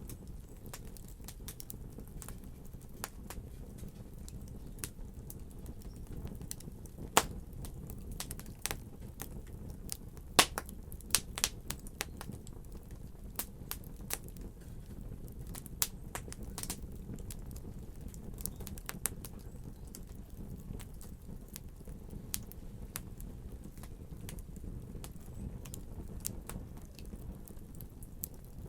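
Fire burning in a fireplace: a steady low rush with scattered sharp crackles and pops, a few of them louder toward the middle.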